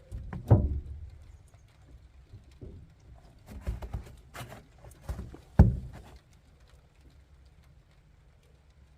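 Irregular metal knocks and clunks from a pickup's headache rack being worked back onto the damaged truck bed. The two loudest come about half a second in and past the middle, with a cluster of lighter knocks between; the last few seconds are quiet.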